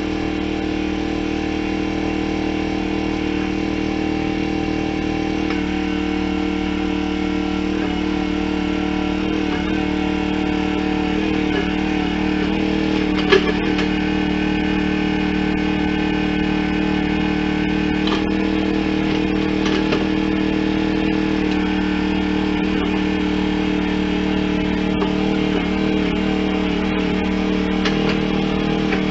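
An engine running at a steady speed, unchanging throughout, with a couple of brief knocks partway through.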